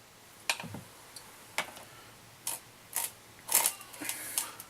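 Irregular sharp clicks and taps of small metal parts and tools being handled, about seven in all, the loudest a little after halfway.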